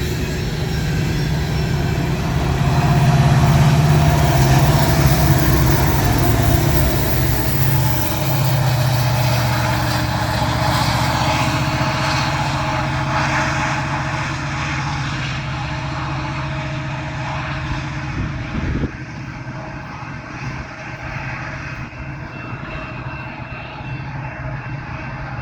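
Two EMD diesel locomotives running as rear distributed power units on a loaded coal train pass by. Their engines make a deep drone that is loudest a few seconds in and then slowly fades as they move away. A single knock comes a little past the middle.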